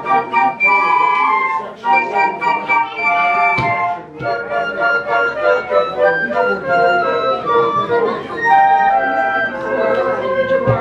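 Live flute ensemble playing a melody in several parts, with a short pause about four seconds in.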